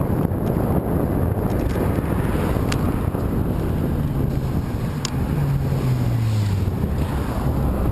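Strong wind buffeting the microphone, a loud, steady rumble from riding into a headwind. In the second half a low hum falls slowly in pitch, and there are two faint clicks.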